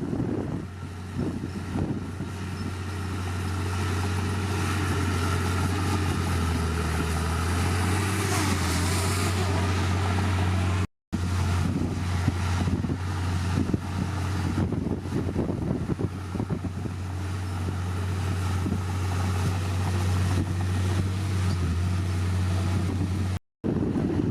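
Heavy earthmoving machine's diesel engine running steadily with a deep, even drone. The sound cuts out twice for a split second.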